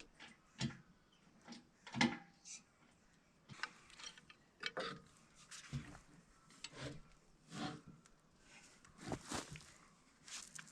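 Irregular faint knocks, clicks and rubbing of wood and metal as a heavy log is worked onto a sawmill with a small crane. The knocks come every second or so, with the sharpest one about two seconds in.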